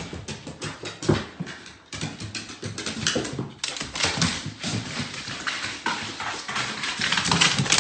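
A dog making small sounds, with many quick irregular taps and clicks.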